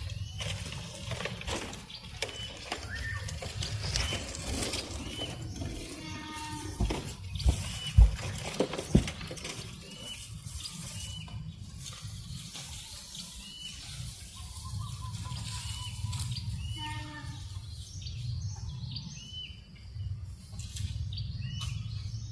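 A bird giving the same short high call over and over, about once a second, over a steady low rumble of breeze on the microphone. A few sharp knocks stand out in the middle.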